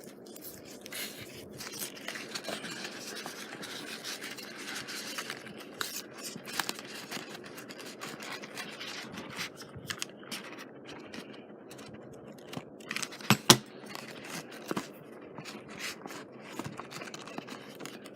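Rustling and scraping of fabric trim being pressed and pulled along a scrapbook page while it is hot-glued down, with scattered small clicks. A louder double click comes about 13 seconds in.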